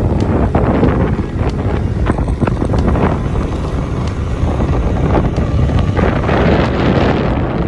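Wind buffeting the microphone over the rumble of a moving motorbike, a loud, gusty noise that never lets up.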